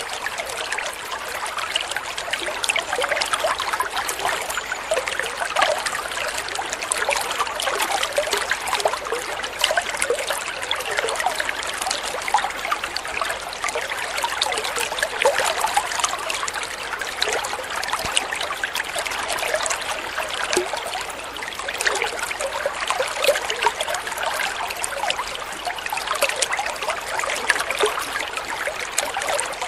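Flowing water trickling steadily, a constant rush of many small splashes with no pauses.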